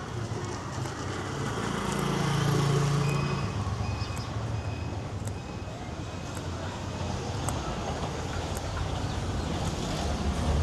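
Street traffic: a motor vehicle's engine passes close by, loudest about two to three seconds in, over a steady hum of traffic.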